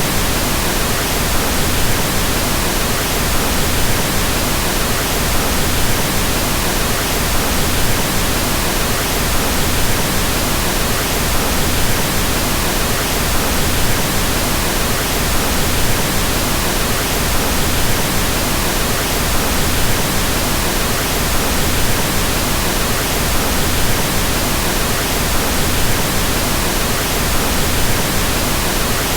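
Steady synthetic pink noise: an even, unchanging hiss spread across all frequencies, with no rhythm or events.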